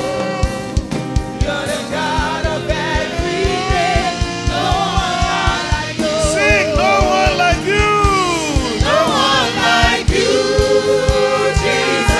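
Gospel worship music: voices singing a wavering melody with vibrato over a band's held chords and a steady drum beat.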